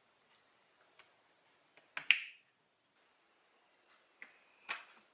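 Several sharp clicks of small hard objects knocking together: a faint one, then a loud double click about two seconds in that rings briefly, and two more near the end.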